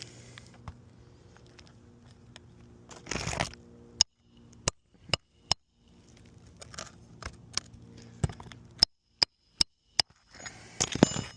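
A hammer striking a steel roof snake to drive a roofing nail in under a raised shingle: sharp metallic taps with a short ring, about four in quick succession, a pause, then about five more, with scraping and rustling between them.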